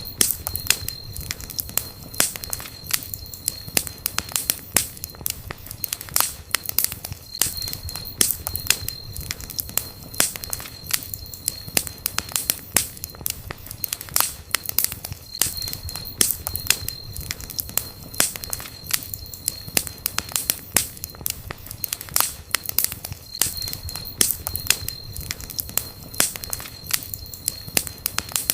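Campfire crackling and popping: a dense, irregular run of sharp snaps over a low steady rumble of flame. A thin high whistle comes and goes several times.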